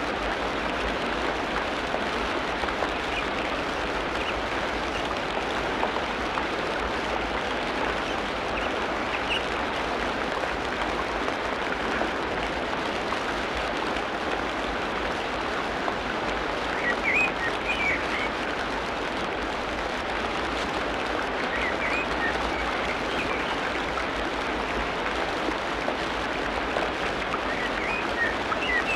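Tropical rainforest ambience: a steady, dense wash of noise like rain on foliage, with a few brief high bird chirps scattered over it, a little more often in the second half.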